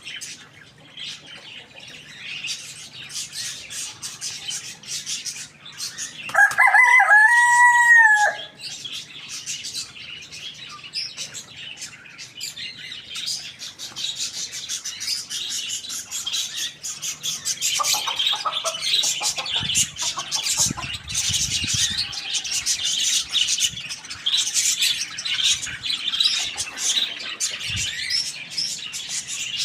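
A rooster crows once, about six seconds in: a single loud, drawn-out crow that is the loudest sound here. Around it small birds chirp continuously, busier in the second half, with a few hen clucks.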